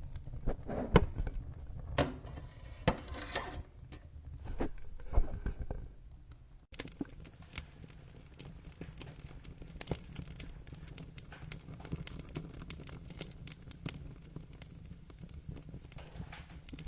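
Wood fire crackling and popping, with a few heavier knocks in the first six seconds. The sound drops out for a moment a little before halfway, then resumes as denser, finer crackling.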